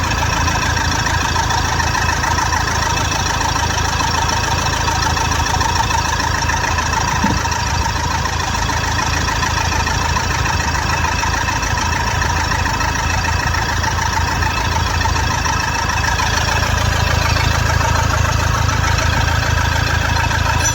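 Toyota Fortuner's four-cylinder common-rail diesel idling steadily with its usual diesel clatter. It has just been fitted with its four repaired injectors and is running evenly, no longer misfiring.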